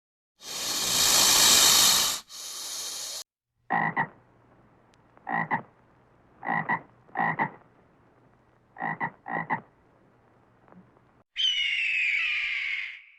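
A loud hiss lasting about three seconds, then a frog croaking six times, mostly in pairs, then a shrill squawking call that falls in pitch near the end.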